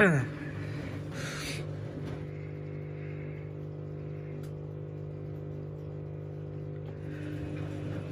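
Washing machine running a wash on its down programme with pillows in the drum: a steady motor hum, with a brief swish of water and laundry about a second in.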